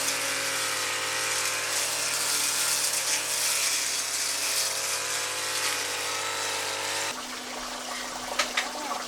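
A small motor running steadily with a humming whine, which cuts off suddenly about seven seconds in; a couple of sharp clicks follow near the end.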